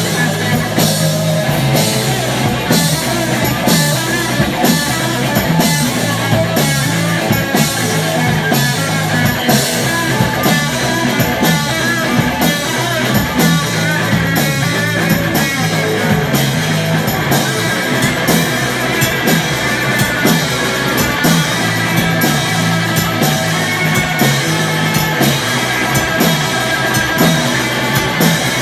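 Rock band playing live, with guitar and a drum kit keeping a steady beat.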